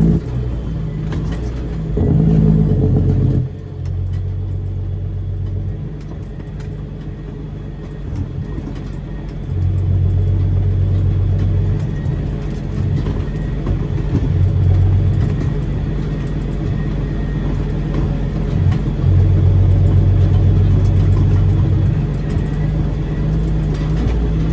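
Caterpillar C13 diesel of a Kenworth W900B dump truck running through straight pipes, its steady low note rising several times as the throttle is worked.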